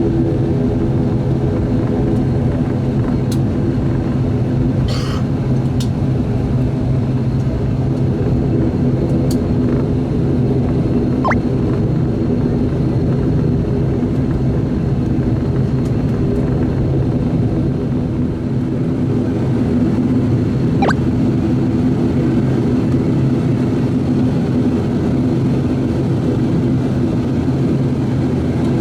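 Cabin sound of an ATR 42-600's Pratt & Whitney PW127 turboprop engines and propellers running steadily as the aircraft taxis: a constant drone with several steady tones over a low rumble.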